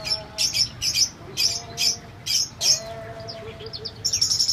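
Small birds chirping: a string of short, high-pitched chirps several times a second, with a fainter, lower call held underneath.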